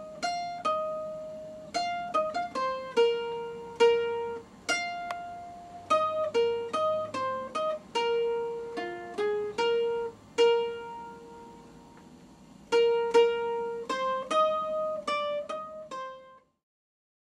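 A simple melody played one plucked note at a time on a small string instrument, with each note ringing and fading. It cuts off suddenly near the end.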